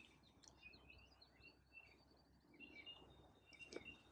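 Near silence with faint wild birdsong: short, high chirps repeating, and a brief rapid trill about a second in.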